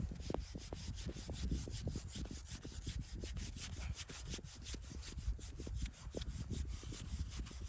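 Hand saw cutting with quick, even back-and-forth strokes, several a second.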